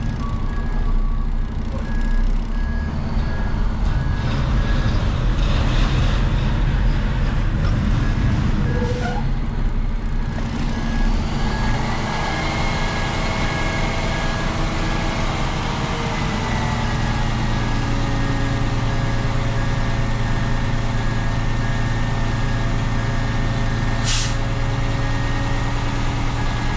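Hook-lift truck's engine running as it reverses, with a steady reversing beeper sounding throughout and the engine note rising and settling partway through. A short burst of air hiss from the air brakes comes near the end.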